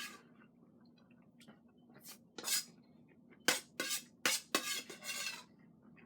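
Utensils scraping and clinking on a plate while eating, in a short cluster about two seconds in and a quicker run of strokes from about three and a half to five and a half seconds.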